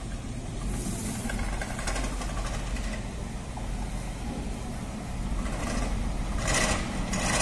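Diesel multiple-unit passenger train approaching, its engine and wheels a steady low rumble that grows louder toward the end. Two short hissing bursts come near the end.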